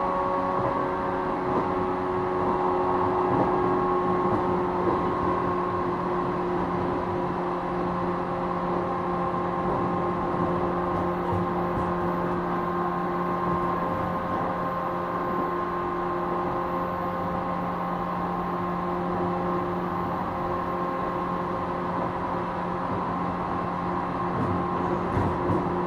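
Running sound inside a JR East 455 series EMU motor car: MT54 traction motors and gearing whining at a steady pitch over wheel and rail rumble.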